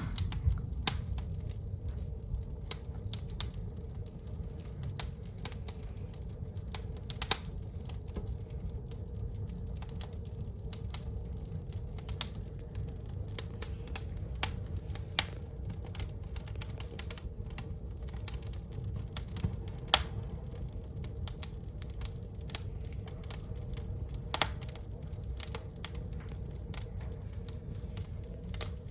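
Wood fire burning in a fireplace, crackling with irregular sharp pops over a low steady rumble; a few louder pops stand out.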